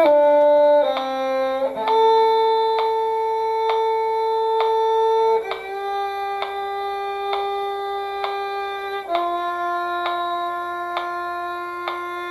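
Cello playing a slow passage: a few short notes, then three long bowed notes held several seconds each, stepping down in pitch, with a faint click about twice a second.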